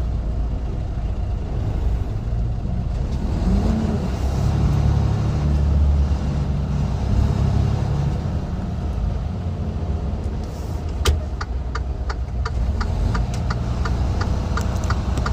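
Semi truck's diesel engine running under way, a steady low drone whose pitch rises briefly about three and a half seconds in. From about eleven seconds a regular ticking joins it, about two clicks a second.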